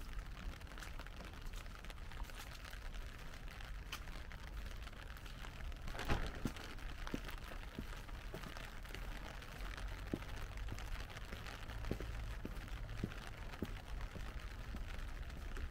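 Light rain: a soft hiss with scattered drops ticking, over a low steady rumble. A brief louder noise comes about six seconds in.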